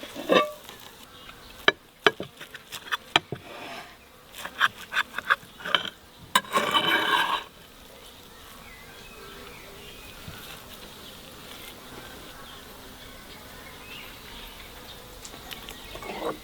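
An insect buzzing, with scattered sharp clicks and knocks over the first half and a loud stretch lasting about a second near the middle.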